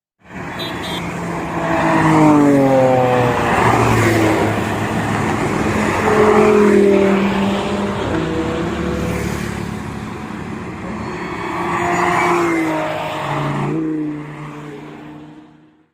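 Supercar engine revving and accelerating on the road, its pitch climbing and dropping several times.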